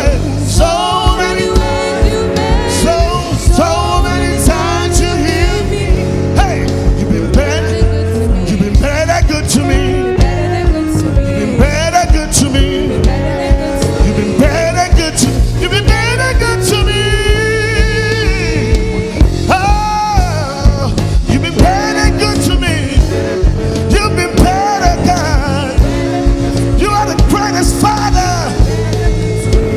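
Live worship band playing with a steady drumbeat, sustained bass notes and a gliding melody line, with singing among it.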